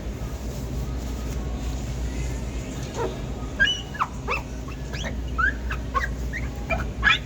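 Quick, high squeaks from wiping the glass door of a floral storage refrigerator, starting about three seconds in. They come as a rapid series of short rising and falling chirps over a steady low hum.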